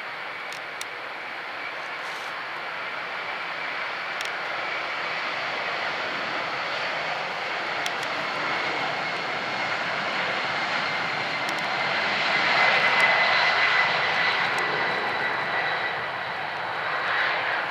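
Boeing 767-300ER's twin Pratt & Whitney PW4060 turbofans at takeoff power: a steady jet roar with a high whine, growing louder and peaking about two-thirds of the way through, then easing off.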